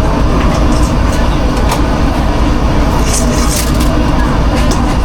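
Steady loud rumble and hiss of food truck kitchen machinery, with scattered small clicks and clatter of cooking work.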